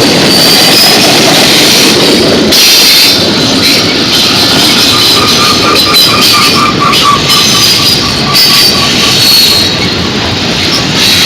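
Freight train of autorack cars rolling past close by: a loud, steady rumble of steel wheels on rail, with high-pitched wheel squeal coming and going and a pulsing squeal for a few seconds in the middle.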